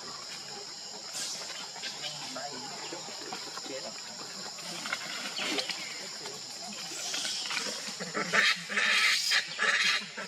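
Steady high-pitched drone of insects, with a few faint squeaks. From about eight seconds in come several loud rustling bursts.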